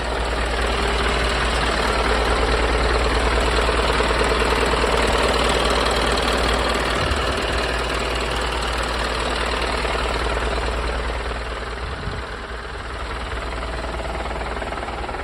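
Diesel engine of a medium-duty truck idling steadily, a low even rumble that eases off slightly about eleven seconds in.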